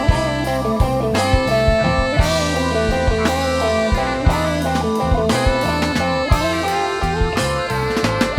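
Band playing an instrumental passage: electric guitar over bass and drums.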